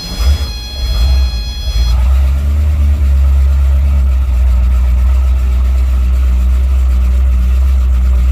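An engine running steadily at a low, even pitch, with a deep rumble. It settles in about two seconds in.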